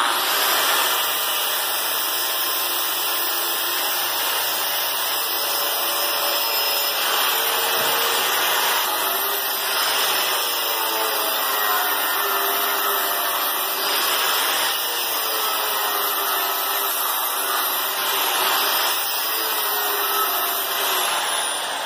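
Angle grinder with a flap disc grinding paint or powder coat off a steel plate. It starts abruptly and runs steadily with a high, slightly wavering whine under the grinding noise, then fades near the end. The coating clogs the disc.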